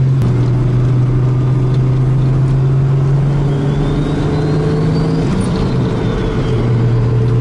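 Turbocharged car engine heard from inside the cabin while driving, a strong steady note that creeps up in pitch, dips briefly about five seconds in and then settles back. A faint high whine rises and falls through the middle.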